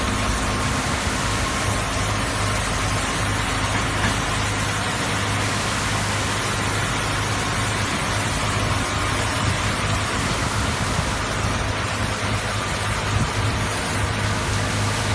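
Rollover truck wash machine running: a steady hiss of spraying water over a low, steady motor hum.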